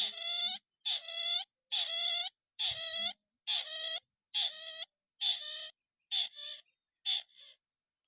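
A crake calling: a run of about nine nasal, slightly downward-bending notes, roughly one a second, growing shorter and fainter toward the end, over a faint steady high whine.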